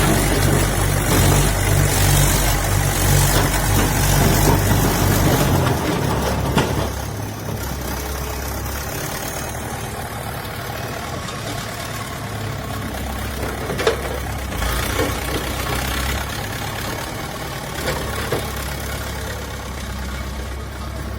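Diesel engine of heavy construction machinery running steadily, louder for the first five or six seconds and then settling lower, with a few faint knocks.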